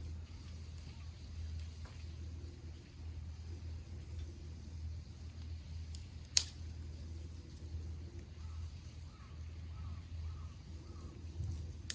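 Quiet evening ambience by a small wood fire with a steady low hum, a single sharp pop from the burning wood about six seconds in, and four faint short chirps near the end.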